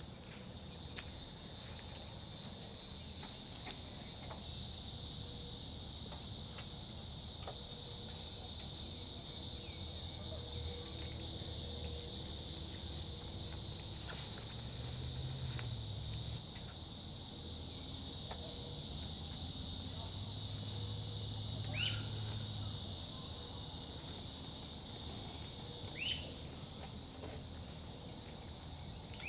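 A steady, high-pitched pulsing chorus of insects, with two brief rising calls near the end.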